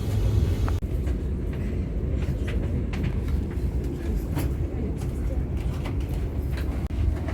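Madaraka Express passenger train running on the rails: a steady low rumble with scattered sharp clicks and knocks.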